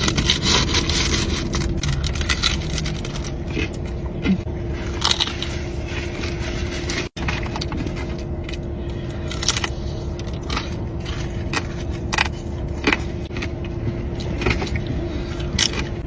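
Eating sounds: fast-food wrappers and packaging crinkling and rustling, with crunchy chewing, as irregular crackles and clicks over a steady low hum. The sound cuts out for an instant about seven seconds in.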